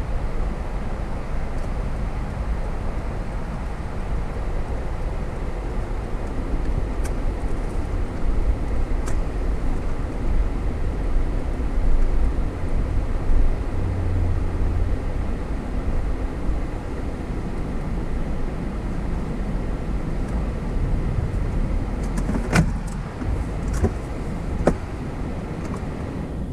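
Steady low rumble of a car driving, with tyre and road noise. Near the end the rumble eases and a few sharp clicks or knocks are heard.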